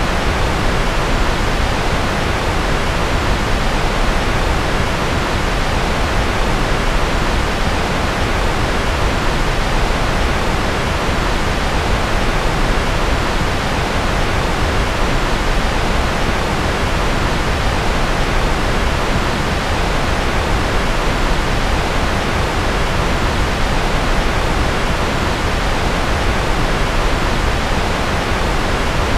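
Steady generated white noise: an even, unbroken hiss with no pattern or change, its weight in the low and middle range and thinning toward the top.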